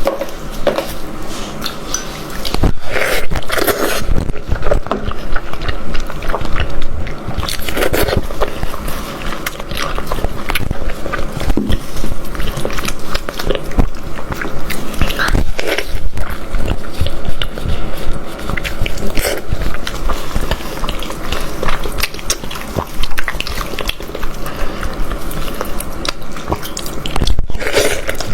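A person biting and chewing meat from a goat head, with many short clicks and smacks throughout.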